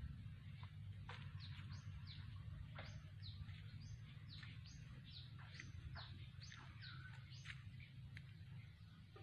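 A bird calling with a run of short falling chirps, about two or three a second, starting about a second in and stopping shortly before the end. Under it is a faint steady low rumble.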